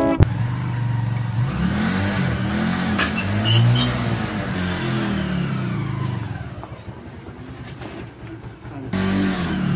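Small motorcycle engine in a homemade mini buggy running and revving, its pitch rising and falling several times; it goes quieter for a few seconds late on, then picks up again near the end.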